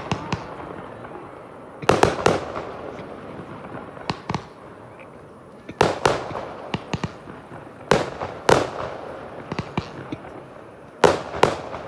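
Fireworks display: aerial shells bursting with sharp bangs, often two in quick succession, with smaller cracks and crackling between the main reports.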